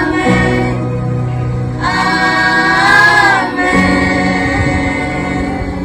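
A choir singing long held notes over a steady low accompaniment.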